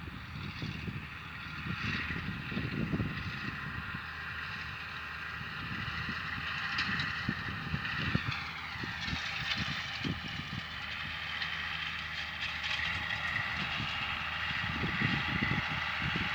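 Farm tractor running steadily in a hayfield, its whine sliding down in pitch about eight seconds in. Wind buffets the microphone throughout.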